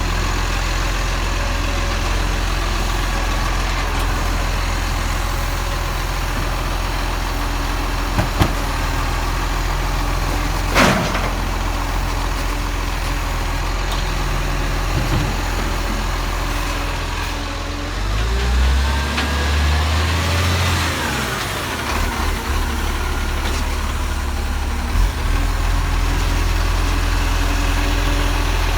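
Garbage truck's diesel engine idling steadily, with a sharp knock about eleven seconds in. About eighteen seconds in the engine note changes for a few seconds, with a faint whine that rises and falls, then settles back to idle.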